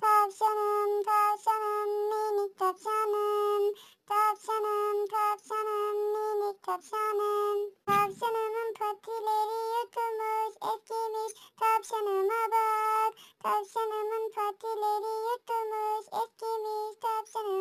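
High-pitched singing of a children's song melody in short, separate notes. A low thump sounds about eight seconds in.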